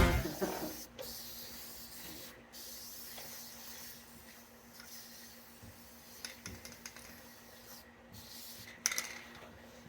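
Music cutting off, then faint handling noises: a few light clicks and knocks, with a sharper clatter near the end.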